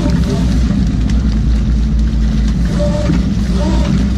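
Fishing boat's engine running steadily with a deep, even drone.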